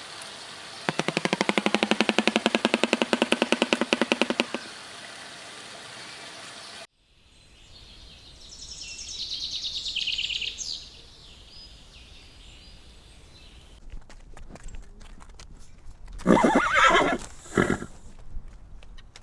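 A run of separate animal calls cut one after another: a loud, rapidly pulsed call lasting about four seconds near the start, a fainter high-pitched call around the middle, then a few clicks and a loud short call near the end.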